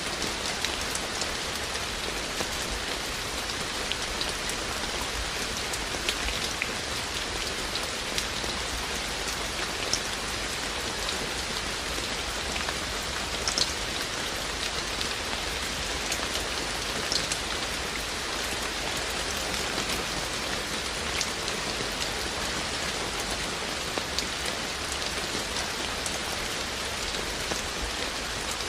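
Steady rain falling, with drops pattering on surfaces in front of a wooden house and individual drips ticking here and there throughout.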